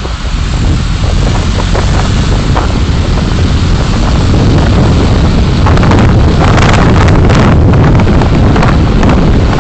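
Car on the road: a steady low rumble of road and engine noise that grows louder over the first few seconds, with irregular crackling through the second half.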